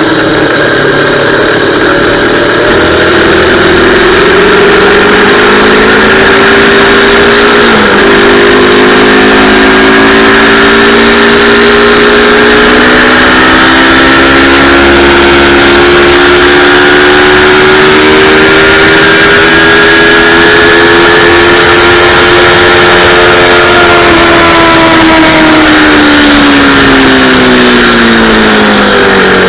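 Yamaha R3 321 cc parallel-twin engine pulling hard at high revs, its pitch climbing slowly through a long stretch with a quick gear change about eight seconds in. It winds down steadily near the end as the bike slows.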